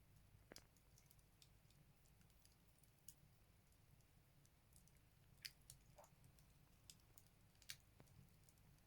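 Firewood crackling as it burns in a Buleryan stove: faint, irregular sharp pops and snaps, a handful over several seconds, the strongest two near the middle and near the end, over a low steady hum.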